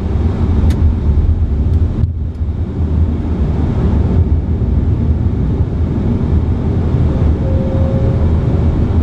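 Steady low rumble of airflow and engines on an Airbus A330-300 flight deck during the approach descent.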